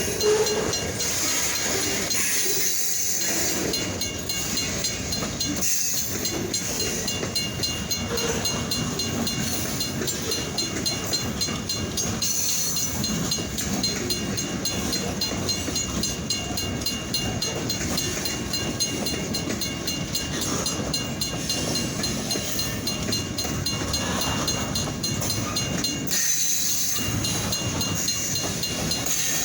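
Kiamichi Railroad freight cars rolling steadily past a grade crossing, a continuous rumble and hiss of steel wheels on the rails. An old mechanical crossing bell rings rapidly and without pause above it.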